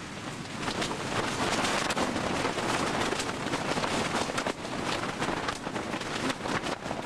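Strong wind buffeting the microphone: a rough, gusting rush that swells about a second in and stays loud.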